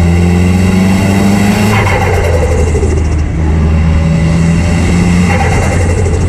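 Nissan S15 Silvia's turbocharged SR20 four-cylinder running through a straight-piped exhaust under acceleration: the revs climb for about two seconds, drop at a shift, pull again steadily, then change once more near the end.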